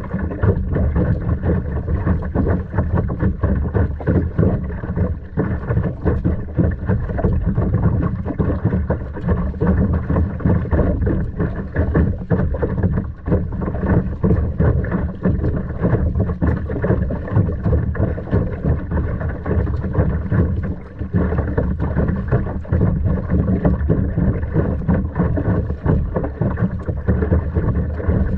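Steady wind rumbling on the microphone, with water sloshing and splashing around a kayak on the sea.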